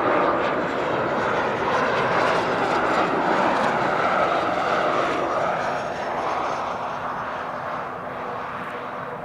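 Cessna Citation III business jet's twin turbofan engines passing during its landing, a loud jet roar with a whine that swells and then fades after about six seconds.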